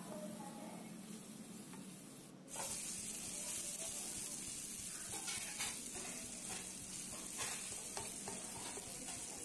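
Onions and ginger-garlic paste sizzling in hot mustard oil in a kadai, fried to cook off the paste's raw smell, while a wooden spatula stirs and scrapes through them. The sizzle jumps louder suddenly about two and a half seconds in.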